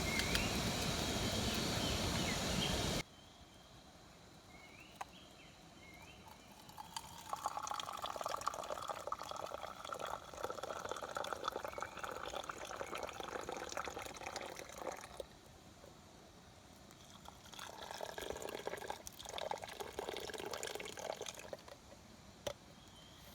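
A loud, steady hiss cuts off abruptly about three seconds in. Then liquid pours in two spells, the longer one first, with a few short bird chirps.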